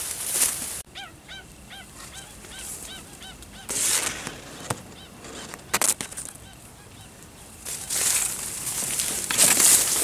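A bird calling over and over, a run of short arched notes about two or three a second, fading out about halfway through. Dry reed stems rustle and swish in bursts as they are pushed aside, loudest near the end.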